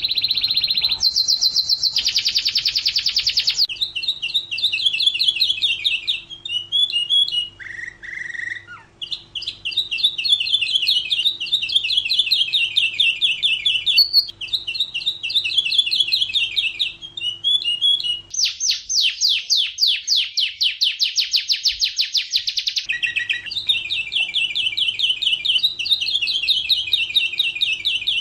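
Domestic canary singing a long unbroken song of rapid trills and rolling repeated notes, with a very fast, higher buzzing trill for several seconds past the middle. A faint steady low hum runs under much of it.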